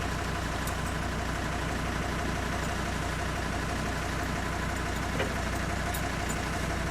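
Old tractor's engine idling steadily, with a low even hum and one faint click about five seconds in.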